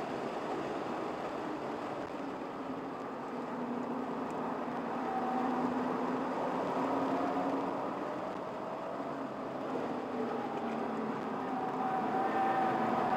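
Car engine and road noise heard from inside the cabin while driving hard on a race circuit. The engine note rises and falls, then climbs and grows louder near the end.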